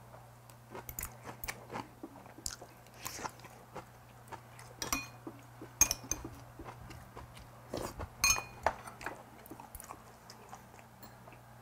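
A person chewing and crunching on a mouthful of Korean home-cooked food. Metal chopsticks and a spoon clink against ceramic bowls, ringing most clearly about five, six and eight seconds in, over a low steady hum.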